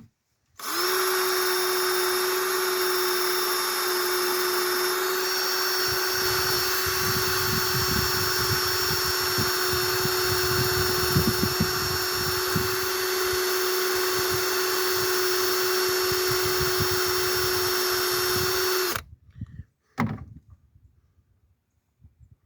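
Power drill running at a steady speed for about eighteen seconds, then stopping suddenly. From about six seconds in, an uneven low rattling joins the whine as the tool works against the clamp, cleaning up a corroded battery cable clamp and its bolt threads.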